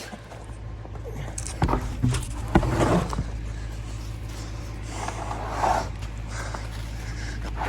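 A vehicle engine running steadily, with a cluster of sharp knocks and clatters about two seconds in and a brief rustling scrape near the end.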